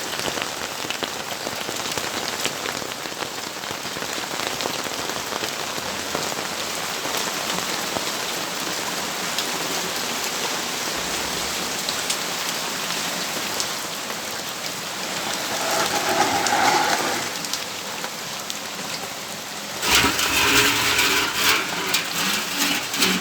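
Steady rainfall, an even hiss of drops on surfaces. A louder swell rises and fades about two-thirds of the way in, and a louder, uneven sound with some pitched tones sets in suddenly near the end.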